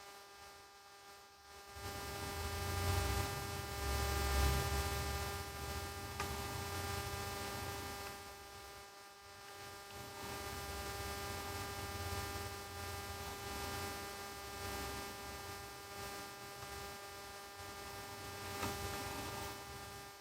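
Steady electrical hum with several fixed tones. A low rumble joins about two seconds in and swells and fades through the rest.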